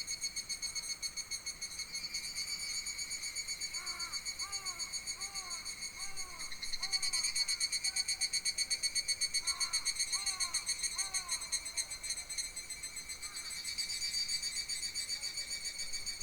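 A steady, fast-pulsing insect chorus in summer woodland, swelling in the middle. Over it an animal gives two short runs of repeated arched call notes, about two a second.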